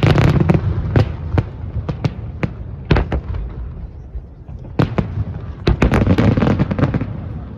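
Fireworks exploding: an irregular string of sharp bangs and crackles, a cluster at the start, scattered single reports, then a dense volley in the second half.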